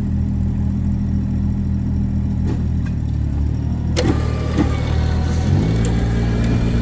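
Vehicle engine running steadily under load, then revving up about five and a half seconds in as the stuck skid steer is pulled against the blocked truck; a sharp knock is heard about four seconds in.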